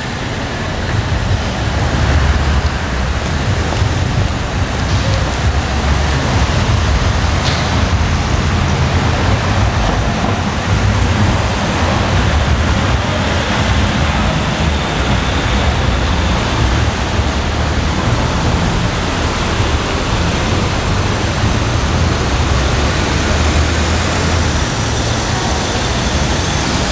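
New York City Subway L train running: a loud, steady low rumble with a broad rushing noise over it, building over the first two seconds.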